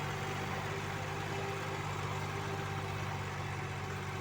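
Diesel engine running steadily at an even, low idle-like speed.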